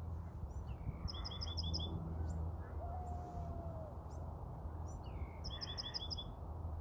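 A small songbird calling: two quick runs of about five high chirps, one about a second in and one near the end, with single chirps between, over a steady low background rumble.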